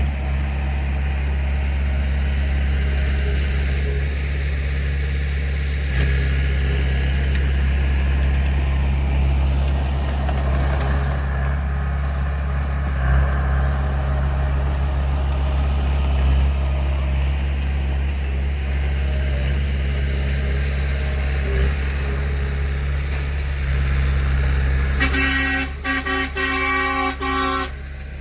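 Heavy earthmoving machinery's diesel engine running steadily at a low rumble. Near the end a vehicle horn sounds in several short blasts.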